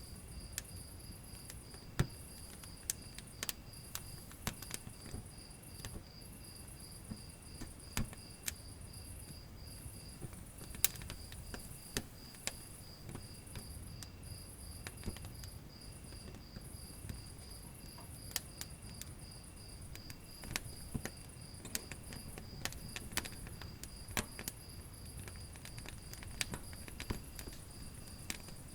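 Wood fire crackling in a fireplace, with irregular sharp pops and snaps over a low hiss. Crickets chirp steadily throughout in a fast, even pulse, with a higher insect trill that starts and stops.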